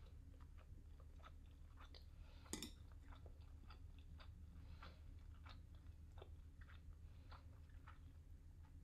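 Faint chewing of a mouthful of tuna triangle kimbap and kimchi: soft, irregular mouth clicks, with one sharper click about two and a half seconds in.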